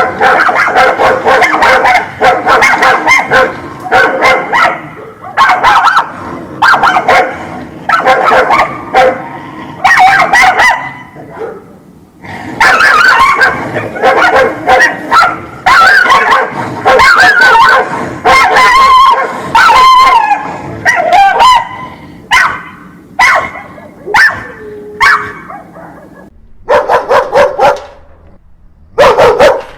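Dog barking angrily in fast, repeated runs of barks, with short pauses between runs.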